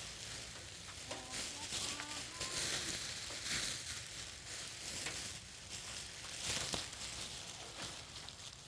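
Steady rain falling, an even hiss that swells and fades.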